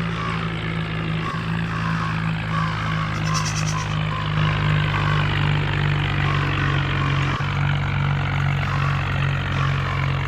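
Swaraj 963 tractor's diesel engine running steadily, a constant low drone.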